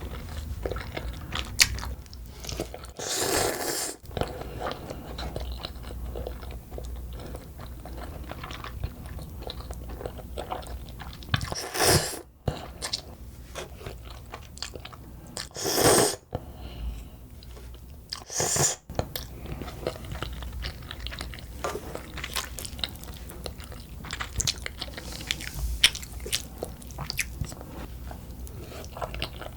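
Close-miked eating of black bean sauce noodles (jjajangmyeon): steady wet chewing and small mouth clicks, broken by four short, louder slurps.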